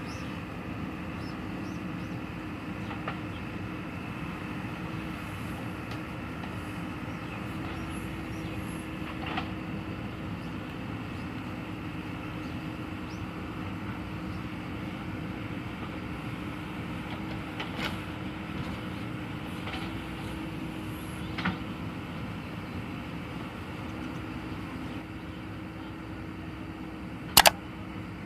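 Heavy machine's engine running steadily, with a few faint knocks and one sharp loud click near the end.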